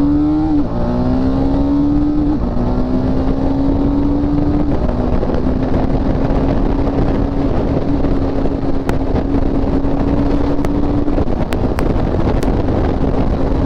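Motorcycle engine pulling through the gears with clutchless upshifts. Its note climbs in each gear, then dips briefly at each shift, several times, as the throttle is released and picked up again. A steady rush of wind runs under it.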